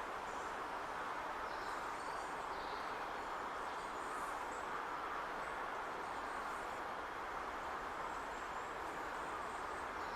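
Steady outdoor background drone, with faint short high bird chirps scattered through it.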